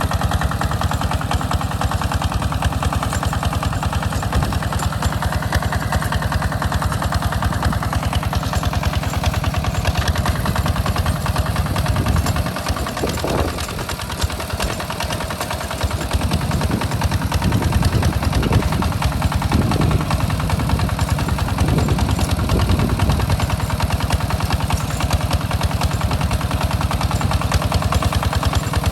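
Walking tractor's single-cylinder diesel engine running steadily with a rapid, even firing knock; about halfway through the note dips briefly and then wavers in pitch as the load changes.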